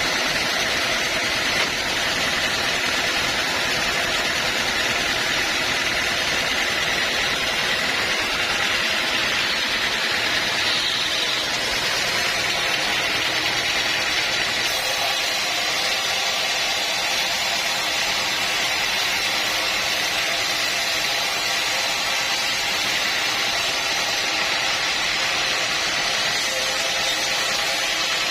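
Sawmill machinery running with a loud, steady, even noise and a faint steady high tone, with no starts or stops.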